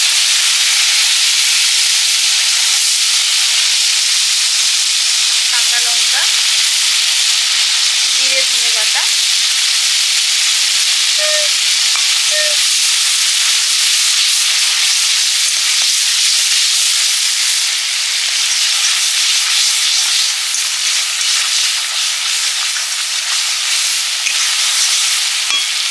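Watery spice paste of radhuni, turmeric and chilli sizzling loudly and steadily in hot mustard oil in a kadai. Cumin and coriander paste is added partway through, and the sizzle eases slightly in the second half.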